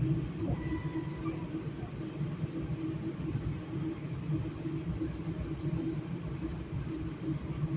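Steady low rumble and hum of a Metrolink commuter train, heard from inside a passenger coach, with a couple of faint brief high tones about a second in.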